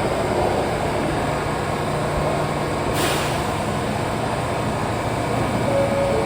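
R179 subway train standing at the platform with a steady low hum, and a sudden hiss of air about three seconds in that fades away. Two short, steady tones, one a little lower than the other, begin near the end.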